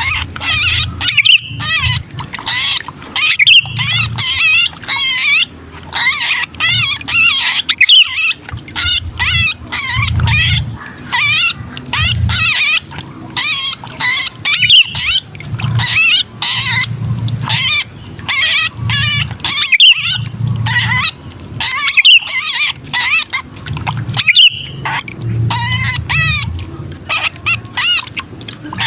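Sooty-headed bulbuls (kutilang) giving harsh, agitated distress and scolding calls, the cries of a bird that has been caught or pinched, used as a lure call for other bulbuls. Many quick, wavering notes come in rapid runs with short gaps.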